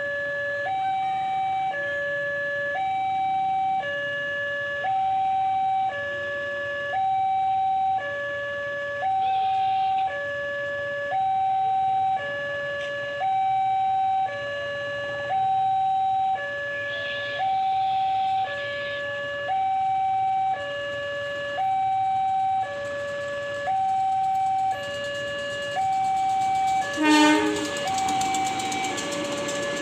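Railway level-crossing warning alarm sounding a steady two-tone signal that switches between a high and a low note about once a second, the sign of an approaching train. A short horn blast cuts in near the end.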